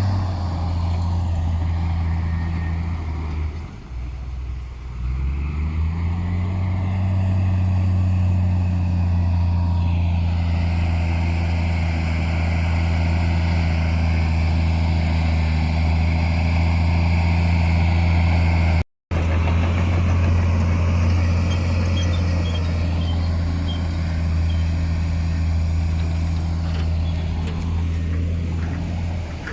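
Heavy diesel earthmoving engine running steadily under load. About four seconds in its revs sag briefly, then pick back up. The sound cuts out for a moment a little past halfway.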